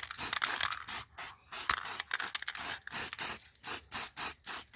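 Aerosol spray paint can hissing in many short bursts, about three a second, as a coat of paint goes on.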